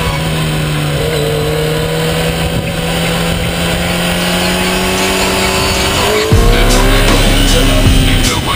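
Kawasaki Ninja sport bike engine running hard at speed, its pitch rising slowly as it accelerates. About six seconds in, louder music with a heavy bass comes in over it.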